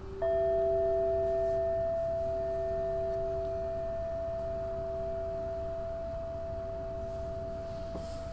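Singing bowls ringing: a lower tone carries on and fades while, about a quarter second in, a higher bowl is struck and rings with a long, slowly fading tone. A faint further strike comes near the end.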